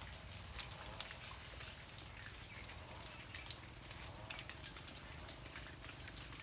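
Steady rain, with scattered drops ticking on leaves and surfaces. A single short, high, rising chirp comes near the end.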